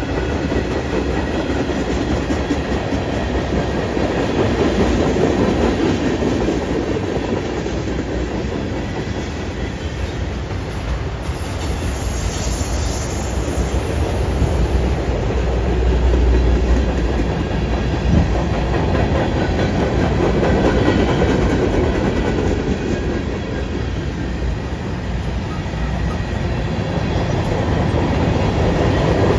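Freight train cars (tank cars, autoracks and covered hoppers) rolling past: a steady rumble and clatter of steel wheels on the rails.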